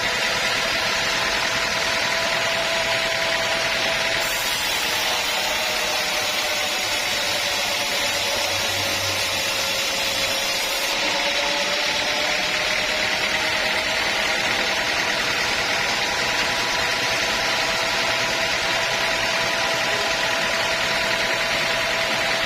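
A sawmill's saw running steadily with a loud mechanical whine. The whine sags in pitch about four seconds in and climbs back over the following several seconds.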